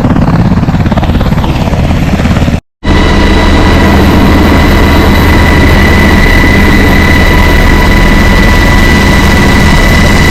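Helicopter running close by, loud and steady. The sound breaks off for a moment about two and a half seconds in, then comes back as a steady engine hum with a high whine.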